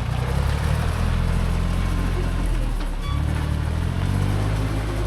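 Vehicle engine running under way, heard from on board. Its low drone dips and breaks briefly about three seconds in, then picks up again.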